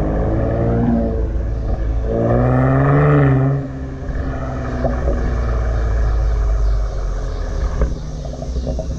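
Ford Explorer ST's twin-turbo V6 exhaust, revving up with rising pitch about two seconds in and dropping off sharply near the middle, then settling into a steady lower rumble with a few short cracks later on.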